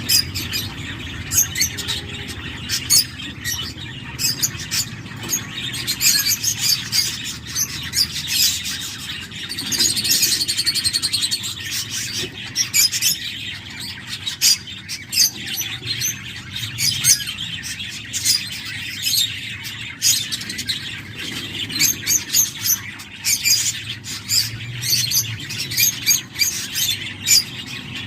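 Cockatiel chicks calling in the nest: many short, high chirps in quick succession, with a longer buzzy call about ten seconds in.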